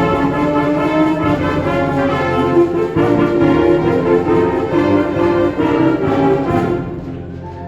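Concert wind band playing with the brass prominent, full held chords over a steady low line; about seven seconds in, the playing drops to a softer, thinner chord.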